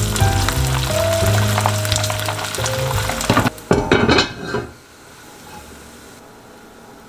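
Diced pork belly sizzling in hot rendered fat in a frying pan, under background music with held notes. About three and a half seconds in there is a second of louder clattering and sizzle, after which the sound drops to a faint hiss.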